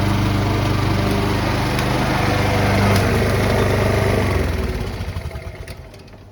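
Honda HRB476C lawnmower's petrol engine running steadily, then shut off about four and a half seconds in and winding down to a stop.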